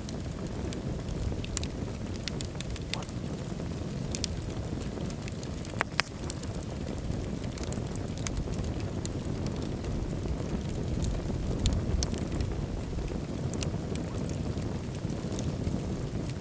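Wood fire burning in a fireplace: a steady low rumble of flames with irregular sharp crackles and pops, the loudest pops about six seconds in.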